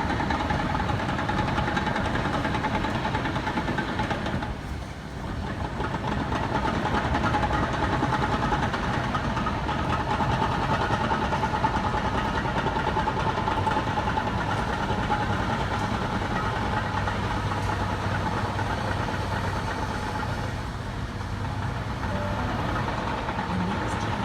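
Sydney Trains OSCAR (H-set) electric train, running empty, passing through the station platform without stopping. A steady high tone runs over the train noise, with a brief dip about five seconds in.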